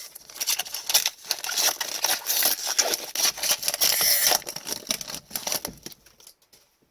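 Foil trading card pack wrapper being torn open and crinkled by hand, a dense papery crackling that fades out near the end.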